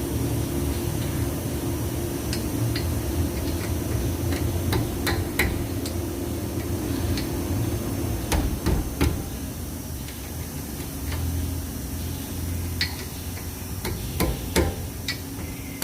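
Scattered metallic clicks and knocks of hand tools on a car's disc brake caliper as it is refitted, over a steady low hum.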